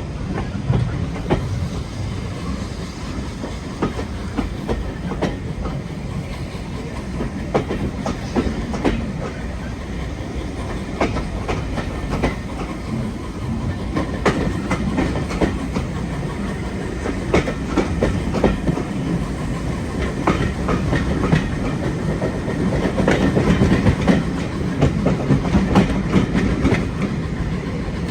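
Train running along the track: a steady rumble with wheels clicking irregularly over the rail joints, a little louder near the end.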